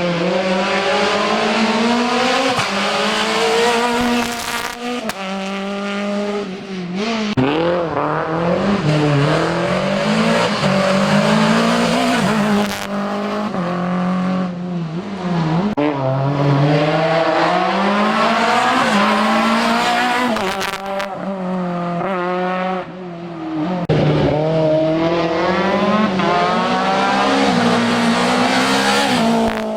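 Race car engine accelerating and lifting repeatedly through the slalom's chicanes, its pitch climbing and falling again and again with brief drops at gear changes.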